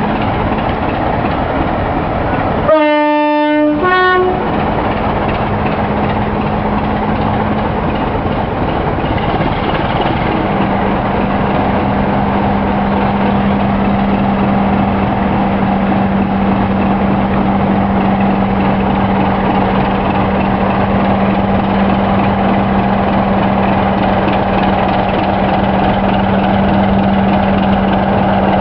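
Class 27 diesel locomotive's Sulzer six-cylinder engine running, with its two-tone horn sounded about three seconds in: a longer low note, then a short higher one. From about ten seconds in the engine note grows stronger and stays steady as the locomotive departs under power.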